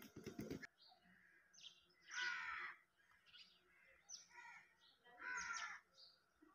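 Faint bird calls: two longer calls about three seconds apart, with shorter chirps between them.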